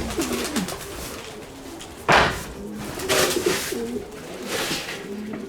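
Several domestic pigeons cooing together, with short noisy rustles about two and three seconds in, the first the loudest.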